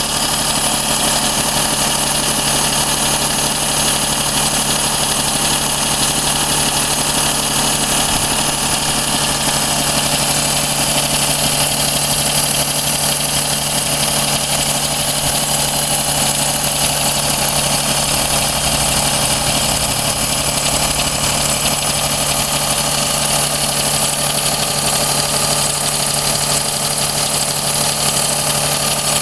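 Daihatsu Cuore L7's EJ-DE three-cylinder engine idling steadily, with a metallic ticking in the background that becomes audible about halfway through. The ticking is not from the cylinder head, and the owner suspects piston slap or a con-rod bearing failure.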